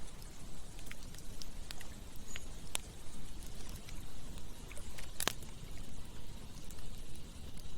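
Campfire crackling, with scattered sharp snaps and one loud pop about five seconds in, over a steady rush of flowing river water.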